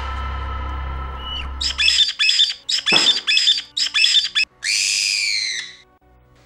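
A parrot squawking: a quick run of short, harsh calls, then one longer call. It follows a held chord of music that ends about two seconds in.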